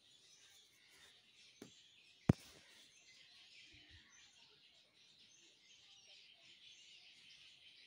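Faint background chirping of birds, steady throughout. A single sharp click a little over two seconds in is the loudest sound, with a fainter click just before it.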